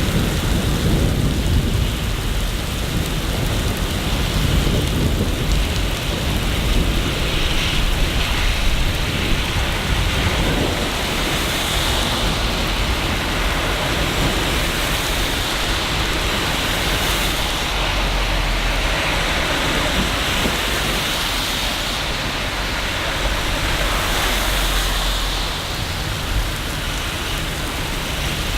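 Steady, heavy rain falling, with low thunder rumbling in the first couple of seconds and again later on.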